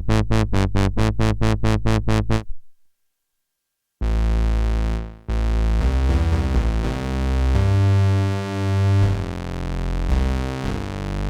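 Behringer JT-4000M Micro synthesizer playing factory presets: a quick run of short, evenly repeated notes, about four or five a second, stops about two and a half seconds in. After about a second and a half of silence, a new preset comes in with deep, sustained bass-heavy notes that step in pitch.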